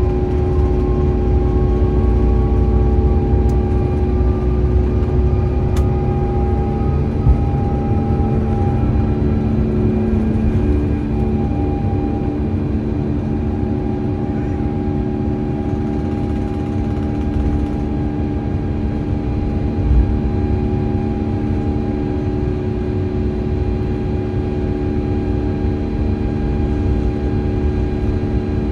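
Steady cabin noise inside an Airbus A350-900 climbing after takeoff: a deep rumble of airflow with the steady hum of its Rolls-Royce Trent XWB engines. A fainter tone rises slowly in the first ten seconds and then fades, and there are two brief knocks.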